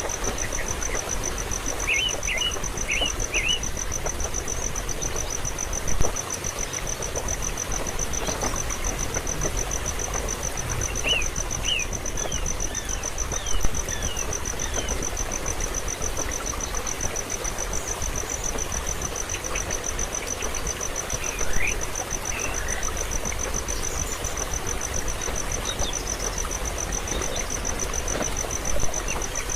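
A steady, high, fast-pulsing insect trill, like a cricket, over a constant hiss of background noise. A few short groups of quick bird chirps come in, about two seconds in, around eleven to thirteen seconds, and once more past twenty seconds.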